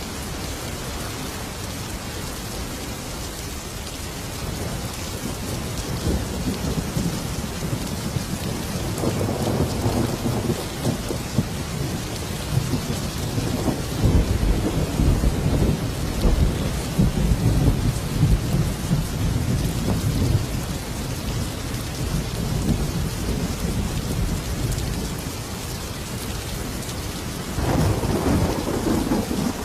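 Thunderstorm: steady heavy rain with rolling thunder. One long rumble builds about a third of the way in and rolls on for some ten seconds, and another begins near the end.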